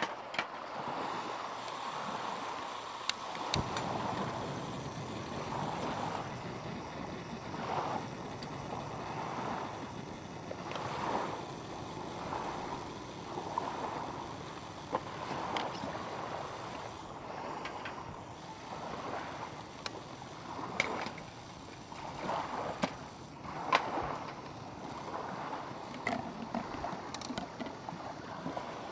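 Small lake waves lapping at the shore in a steady, gently swelling wash, with scattered light clicks and taps.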